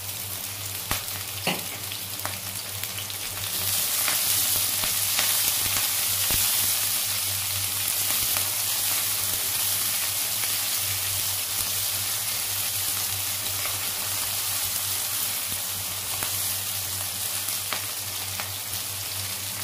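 Sliced shallots, garlic and red and green chillies sizzling in hot oil in a nonstick wok, stirred with a wooden spatula that taps and scrapes against the pan. The sizzle grows louder a few seconds in.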